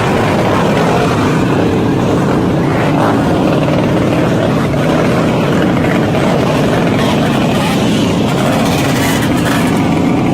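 Small motorbike engines running and revving together in a steady, loud, buzzy din.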